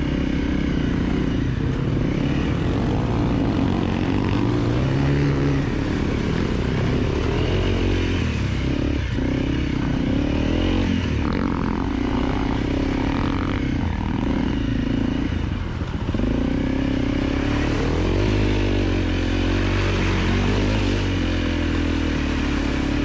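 A 250 cc dirt bike engine running on and off the throttle, its pitch rising and falling continuously.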